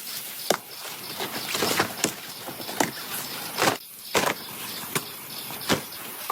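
Steady rain hiss, with sharp knocks and snaps coming irregularly about every half second to a second.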